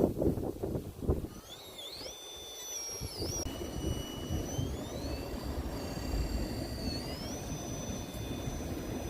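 A few loud knocks in the first second. Then the high-pitched electric whine of an RC rock crawler's 3Brothers Yellow Jacket 2000kv brushless motor, stepping up and down in pitch with the throttle over a low rumble of the truck crawling.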